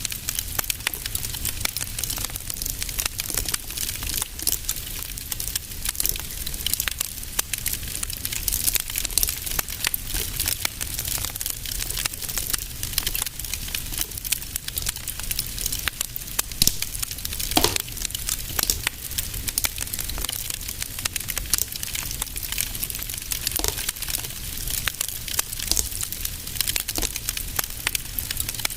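Wood fire in a fireplace crackling steadily, with dense small irregular snaps over a low rumble and a few louder pops, one about two-thirds of the way through.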